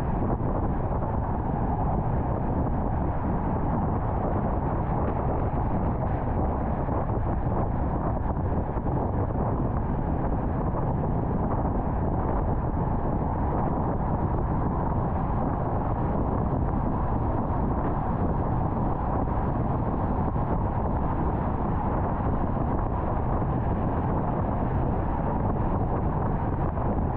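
Steady road noise of a car at highway speed: an even hiss and low rumble of tyres and wind, with no changes or separate events.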